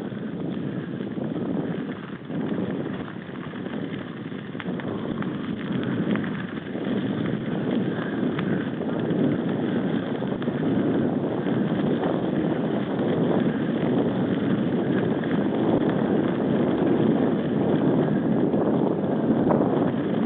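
Wind buffeting the microphone over a steady rumble of riding on a mountain bike, with scattered small clicks and rattles, growing a little louder.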